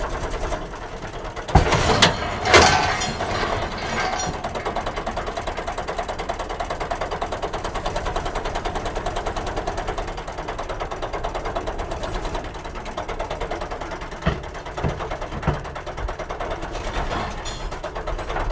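Tractor diesel engine running with a steady pulsing beat. Sharp knocks come in a cluster about two seconds in and again near fifteen seconds in.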